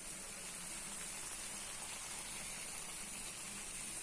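Gram-flour (besan) omelette batter with a slice of bread on top frying in butter in a nonstick pan, its underside cooking: a steady, soft sizzle.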